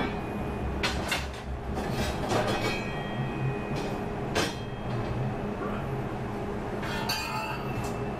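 Laser-cut quarter-inch steel welding-table plates clanking and scraping against one another as they are handled and sorted: several metallic knocks, some ringing briefly, over a steady low hum.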